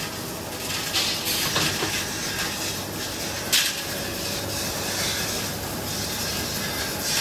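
Workshop noise: a steady hiss with a few short, sharp bursts of hissing, the strongest about three and a half seconds in.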